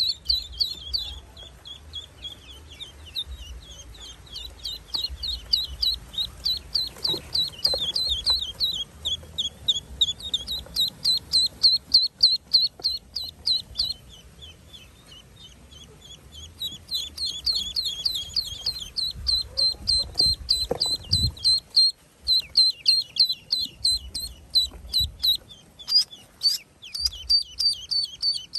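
Ducklings peeping: short, high peeps repeated about three or four a second, with a lull of a few seconds about halfway through before the peeping picks up again.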